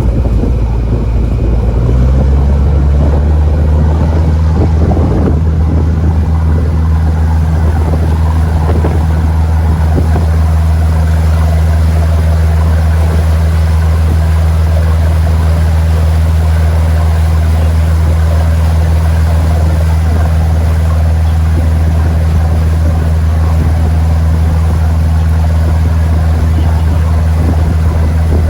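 Sightseeing boat's engine running steadily, a loud low drone with water and wind noise over it. The engine note steps up about two seconds in and then holds.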